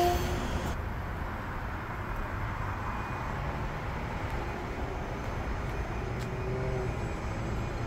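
Train running past on the Northeast Corridor tracks: a steady rushing rumble of wheels on rail, starting just as a multi-tone train horn cuts off.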